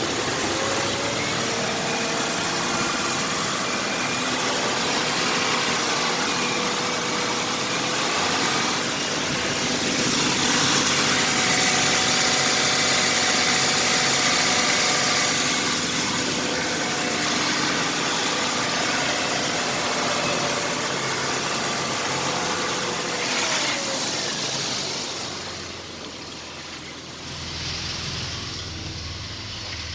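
1999 Ford Explorer engine running at idle, steady with a faint whine. It grows slightly louder for several seconds in the middle and quieter near the end.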